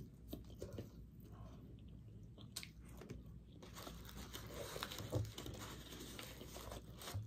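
Faint close-up chewing of French fries, with small clicks and soft crinkles of a paper-and-foil sandwich wrapper as the sandwich is picked up, and a light knock about five seconds in.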